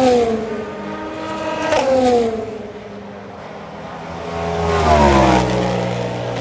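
Hypercar prototype race cars passing at speed one after another. Each engine note drops in pitch as the car goes by. The loudest passes come right at the start and about five seconds in, with a lighter one near two seconds.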